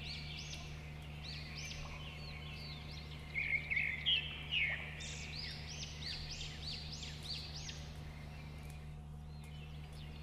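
Birds chirping over and over in many short, arched calls, busiest in the middle, over a steady low hum.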